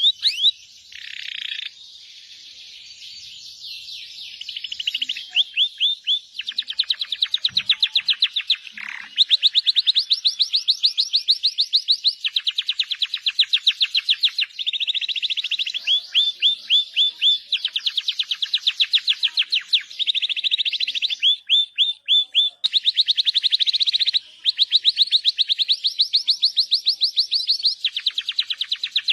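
Domestic canary singing non-stop: a chain of fast trilled rolls, each phrase a rapid run of repeated high notes, switching to a new phrase every second or two, with sharp chirps mixed in.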